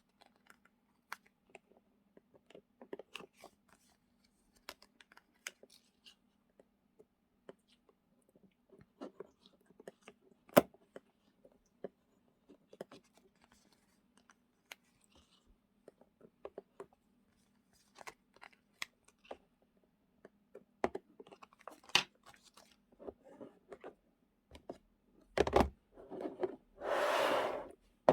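Journaling supplies (paper stickers, packets and small storage boxes) being handled and sorted: scattered light taps, clicks and paper or plastic rustles, with one sharp click about ten seconds in. Near the end there is a thump, then a rustle or tear lasting about a second.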